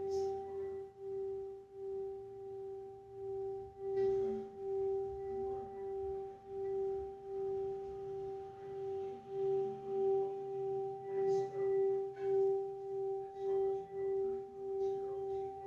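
Singing bowl sounding for the root chakra: one steady ringing tone with fainter higher overtones, swelling and fading in loudness about twice a second.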